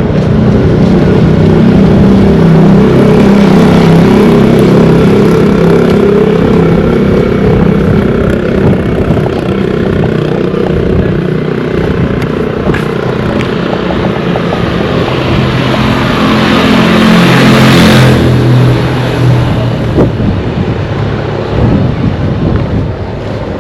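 Motor vehicles passing close by on a road, engines running and tyres hissing. One vehicle builds up to its loudest about 18 seconds in and then drops away sharply.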